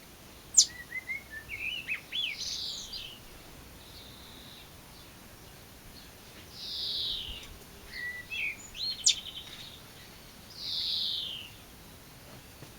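Songbird singing outdoors: short rising whistled notes alternating with harsh, scratchy descending notes, in about three phrases. Two sharp clicks, about half a second and nine seconds in, are the loudest sounds.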